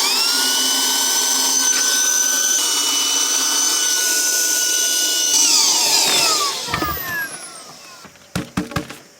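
Small electric air pump whining as it spins up, running at a steady pitch, then dropping in pitch about five seconds in as the inflatable becomes firm, and stopping about two seconds later. A few clicks follow near the end.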